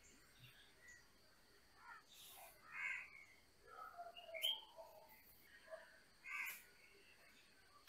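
Faint birdsong: birds chirping and calling on and off, with a few louder, harsher calls about two and a half seconds in and again after six seconds.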